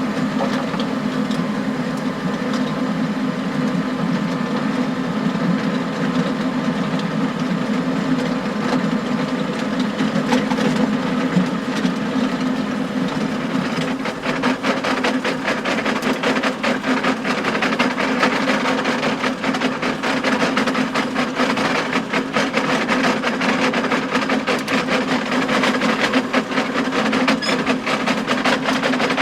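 John Deere tractor engine running steadily under load, pulling a power harrow, with rapid clacking and knocking from stones striking the harrow tines. The clatter grows much thicker about halfway through.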